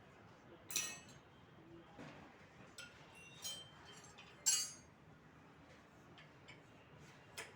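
Metal tools and engine parts clinking as they are handled, in about five separate sharp, ringing clinks, the loudest about halfway through.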